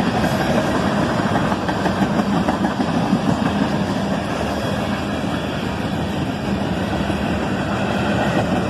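Freight cars of a passing train rolling by: a steady noise of steel wheels running on the rails.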